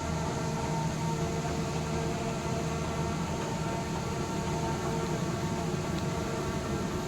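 Belt conveyor running: a steady mechanical hum with several steady tones and no breaks.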